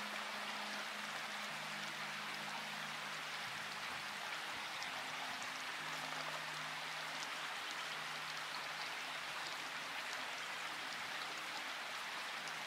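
Steady rain, an even hiss with scattered drop ticks. Soft, low held music notes sound faintly beneath it, changing pitch every few seconds.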